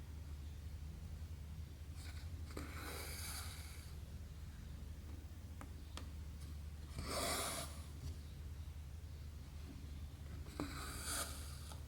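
Embroidery thread drawn through stamped 11-count cross-stitch canvas three times, each pull a rasping swish lasting about a second, with a few faint clicks of the needle in between.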